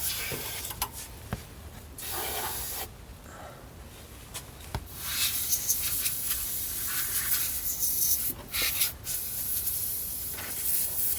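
Can of compressed air spraying in several hissing bursts, the longest about three seconds, blowing dust out of a boombox's insides, with a few light clicks in between.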